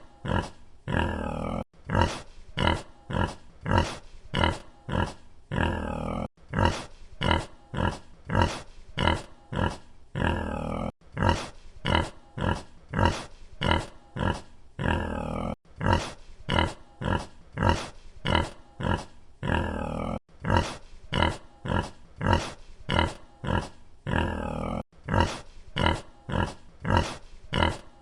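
A pig grunting in short, rhythmic grunts, about two a second. The same few seconds repeat over and over as a loop.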